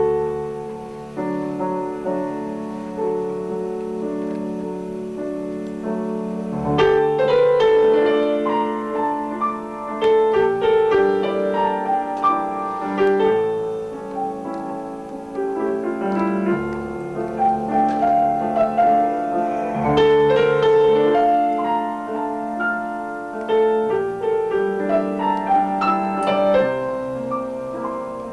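Piano music: held chords under a melody, with the playing getting busier about seven seconds in.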